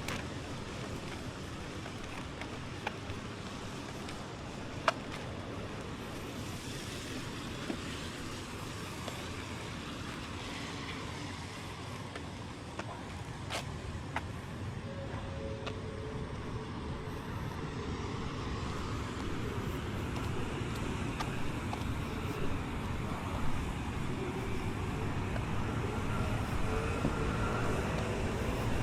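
Steady road traffic noise with a few sharp clicks. Near the end it grows louder as a vehicle comes closer.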